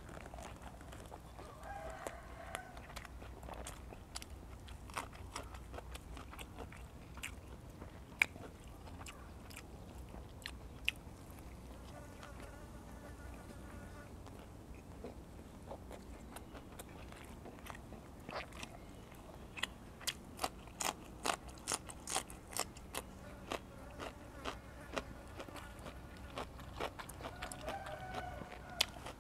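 Close-up chewing of raw beef: wet mouth clicks and smacks, growing much more frequent in the last third.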